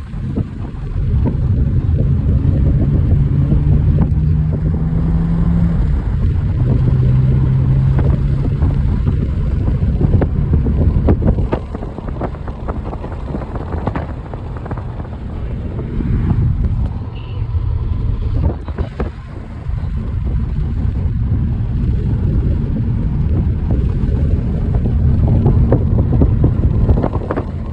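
A car driving, with engine and road rumble and wind buffeting the microphone. A steady engine hum drops in pitch about six seconds in.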